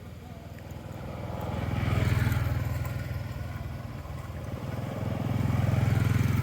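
A motor vehicle engine running, growing louder about two seconds in, easing off, then swelling again near the end, as a vehicle passes close by.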